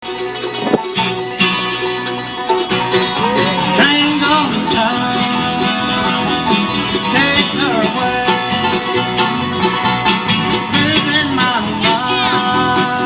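Bluegrass band playing an instrumental intro, with picked banjo and guitar and some sliding melody notes over a steady beat.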